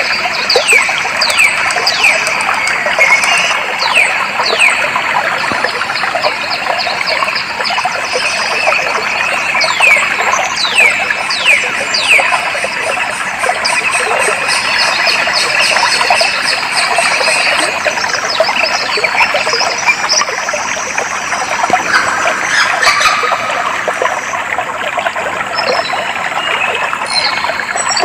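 Clear stream water flowing steadily, with birds calling over it: many short whistles that fall quickly in pitch, repeated about once a second through the first half and more scattered later.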